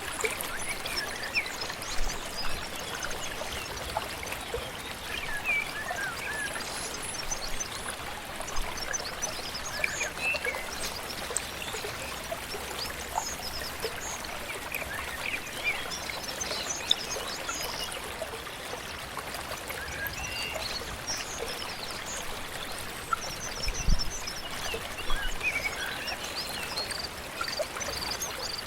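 Steady rush of a flowing river or stream, with many small birds chirping and singing over it in short calls throughout. A single dull low thump sounds near the end.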